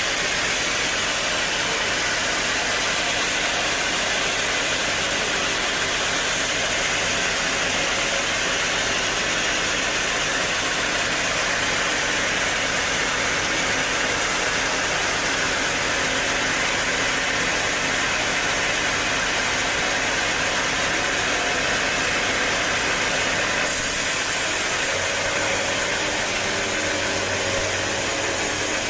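Band sawmill machinery running steadily with a dense, even mechanical noise; the sound changes about 24 seconds in, losing some of its low rumble.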